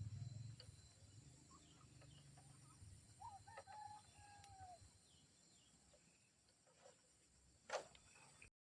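A rooster crowing faintly once, one long call that falls in pitch at the end. A single short knock sounds near the end.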